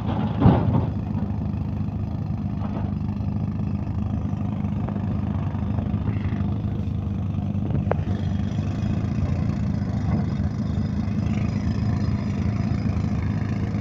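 Diesel engines of tractors and a hydraulic excavator running steadily during trolley loading, with one sharp knock about half a second in and a faint click later.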